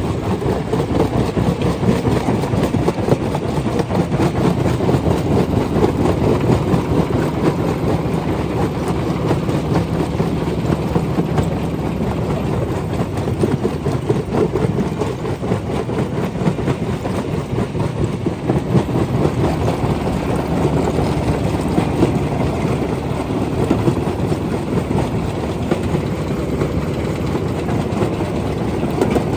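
Rock crusher running, with a steady, dense rattle and grinding of stone being crushed over the low drone of the machine.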